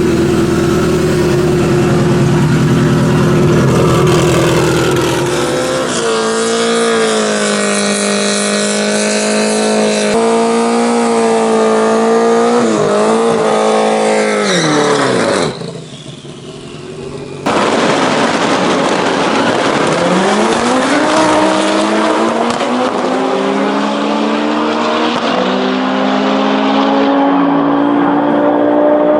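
Turbocharged Subaru EJ25 flat-four engine in a drag-racing Mk1 Ford Fiesta. It is held at steady high revs for about six seconds, then runs at full throttle, its pitch climbing and dropping back at each gear change. After a short quieter gap it pulls hard again through the gears.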